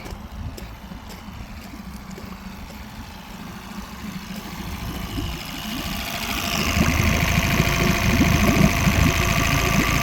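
2001 Yamaha 8 hp four-stroke outboard idling steadily, growing louder about six seconds in, with an irregular low rumble underneath.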